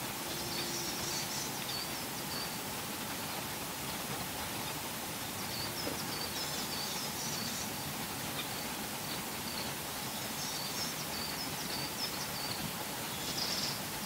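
Faint, high twittering bird song, a short phrase every few seconds, over a steady hiss of outdoor background noise.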